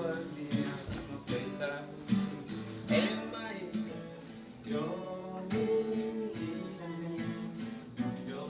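Music with a strummed acoustic guitar and what may be singing.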